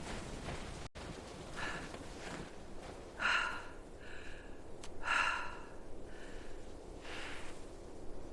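Heavy, laboured breathing: a run of breathy inhales and exhales about once a second, alternating louder and softer, starting just after a brief sound dropout about a second in, over a faint steady hiss.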